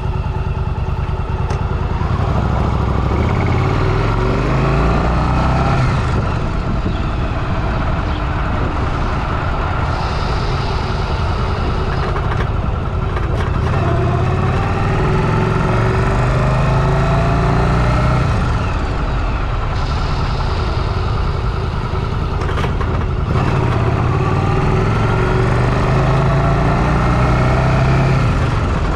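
Motorcycle engine running under way, climbing in pitch several times as it accelerates.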